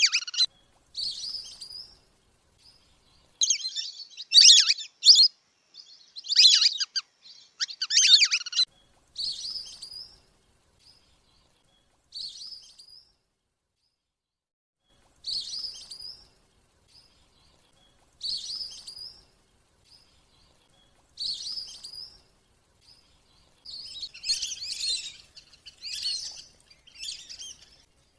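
Wandering whistling-duck calls: bursts of high, thin whistling twitters repeating every second or two, loudest in the first nine seconds and again near the end, with short silent gaps between.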